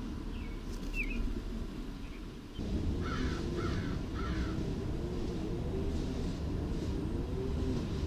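Three harsh bird calls in quick succession, about half a second apart, some three seconds in, after a couple of faint short chirps. A low steady rumble sets in suddenly just before the calls and carries on underneath.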